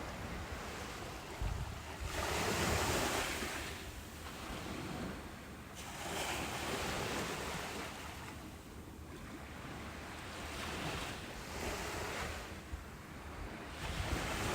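Ocean surf breaking on a beach, washing in and out in swells every few seconds, the loudest wave about two seconds in. A low wind rumble on the microphone comes near the end.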